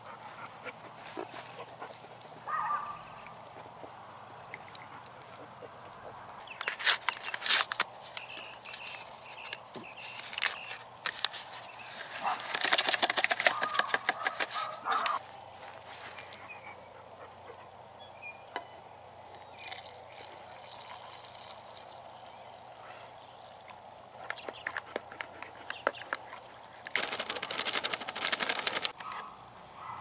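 Bird calls in several bursts of a second or two, the loudest about halfway in, over quiet evening ambience.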